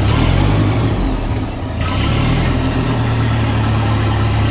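Grey Ferguson tractor's four-cylinder spark-ignition engine running after starting. Its note shifts over the first couple of seconds, then settles to a steady run. It is running again now that a faulty coil-to-distributor high-tension lead and a rotor button with no continuity have been dealt with.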